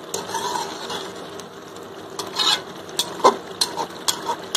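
Chicken and spice masala sizzling as they fry in oil in a metal pot, while a slotted steel spoon stirs them. Sharp scrapes and clinks of the spoon against the pot come about every half second in the second half.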